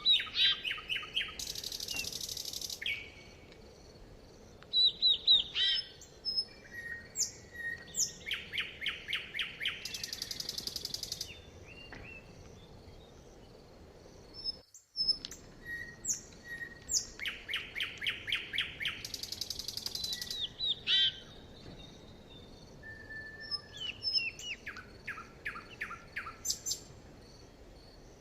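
Songbirds singing: repeated series of quick descending chirps, buzzy high trills and short whistled notes over a faint steady background. There is a brief break to silence about 15 seconds in, after which the same phrases come again in the same order.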